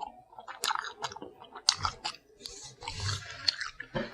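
Close-up chewing of lobster claw meat: wet mouth clicks and smacks in quick, uneven bursts.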